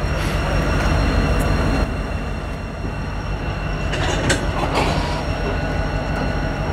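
Diesel-hauled passenger train rolling slowly past, with a steady low rumble. A few sharp clanks come from the car wheels about four to five seconds in.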